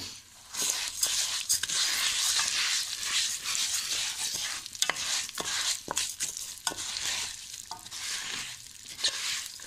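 Bulgur sizzling in hot butter and oil as it is toasted, stirred with repeated scrapes and clicks against the pot. The sizzle starts loud about half a second in and weakens over the last few seconds.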